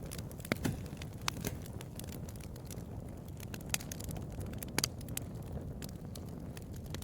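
Bonfire crackling: a steady low rumble of burning with scattered sharp pops, a quick pair of them a little after the middle.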